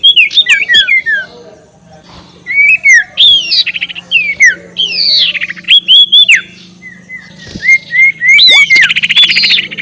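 Sirtu bird's cackling call played as a bird-lure recording: a rapid series of loud, sharp chirps that slide downward, broken by quick rattling chatters, with a fast rattle near the end.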